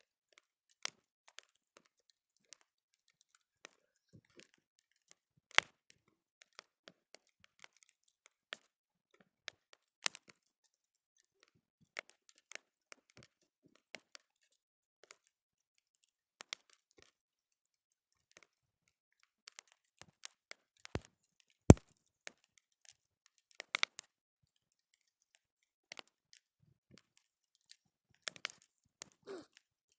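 Wood fire crackling: scattered, irregular sharp snaps and pops from burning wood, with one much louder pop a little past the middle.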